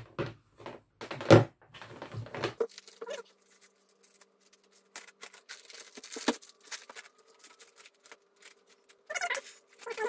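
Handling noise from unboxing a laptop: a few sharp knocks as a charger and cable are set down on a table, the loudest about a second in. Then a long run of small, fast crackles as the laptop's clear plastic sleeve is handled.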